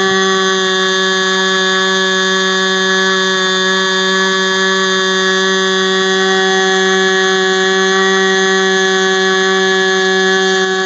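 ASP 25 two-stroke glow-plug model aircraft engine swinging a 10x6 propeller, running flat out at a steady high speed on a test stand. The result is a loud, even, high-pitched buzz.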